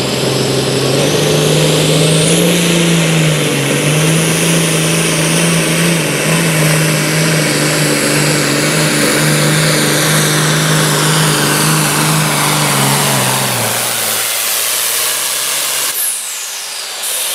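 Farm tractor's diesel engine running at steady high revs under full load, then sagging in pitch and loudness about thirteen seconds in as it slows.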